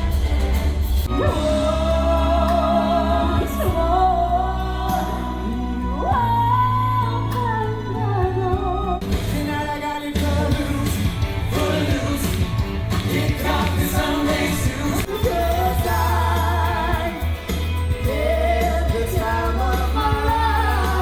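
Live stage show music: a singer holding long notes with vibrato over a band with a heavy bass.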